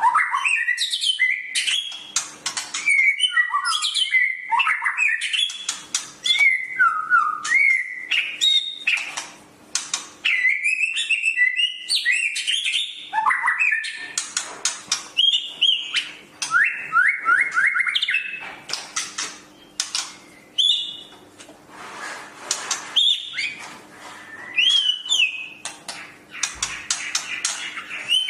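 A songbird singing a long, varied song of whistles, chirps and rapid trills with hardly a pause.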